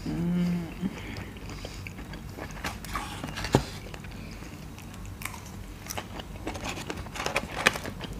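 People chewing burgers and french fries, with wet mouth smacks and sharp clicks scattered irregularly, the loudest about three and a half seconds in and near the end. It opens with a short hummed "mm".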